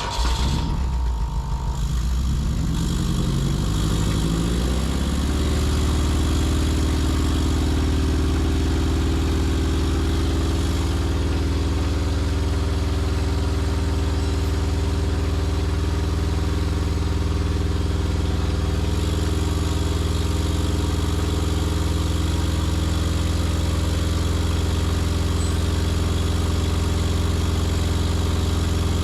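Acura K24A2 four-cylinder engine starting on its first run after the swap. Its speed climbs over the first five seconds, then it holds a steady high idle of about 3,000 rpm.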